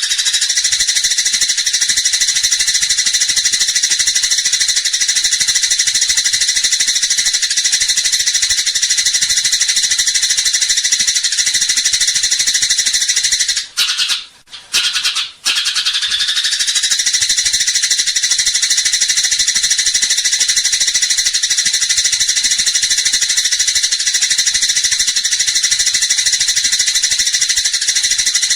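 Eurasian tree sparrow giving a fast, unbroken, high chattering of the kind sold as a fighting ('tarung') sparrow call. It runs in two long stretches with a short break about halfway.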